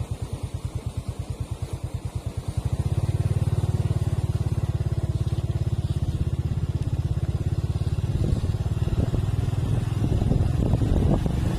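A vehicle engine running with an even low pulse, growing louder and quicker about three seconds in. Scattered light knocks come in over the last few seconds.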